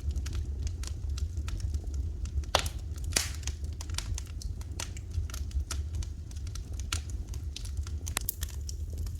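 Wood fire crackling, with irregular snaps and pops and two louder pops about two and a half and three seconds in, over a steady low rumble.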